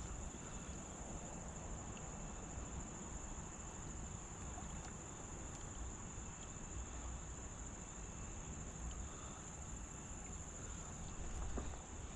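Insects trilling steadily at one high pitch, over a faint low rumble.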